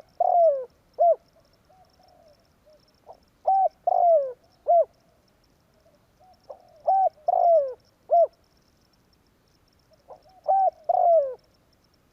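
Spotted dove (tekukur) cooing. It repeats a phrase of a short coo, two longer coos that fall in pitch and a short closing coo, about every three and a half seconds, four times.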